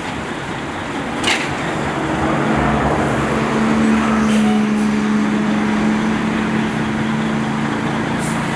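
An engine running steadily over busy street noise. Its even hum grows louder about two seconds in, and there is one short sharp click about a second in.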